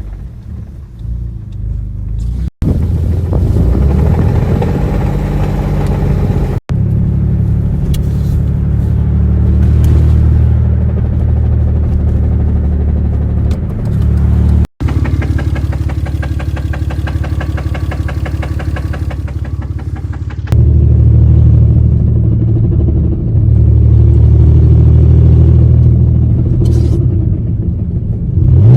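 Car engine with a loud exhaust running and revving hard under acceleration, in several clips joined by abrupt cuts. A faster-pulsing, higher-revving stretch falls in the middle, and the engine pulls loudly again near the end.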